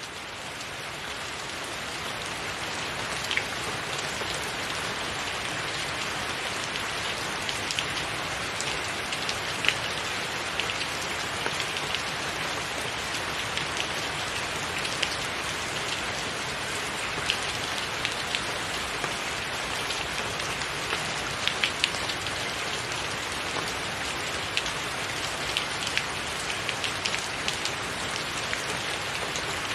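Steady rain falling, with sharp individual drops tapping close by every second or so. It fades in over the first couple of seconds.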